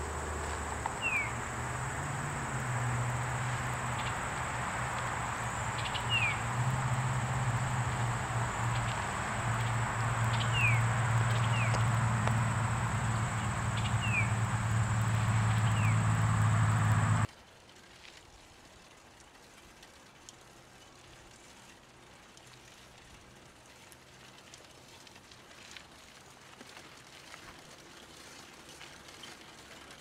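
Woodland ambience: short, falling bird chirps every second or two over a steady high whine and a low hum. About 17 seconds in, the sound cuts abruptly to much quieter, faint outdoor ambience.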